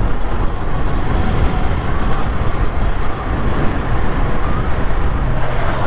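Motorcycle on the move: heavy wind and road noise buffeting the action camera's microphone, with the engine running steadily beneath.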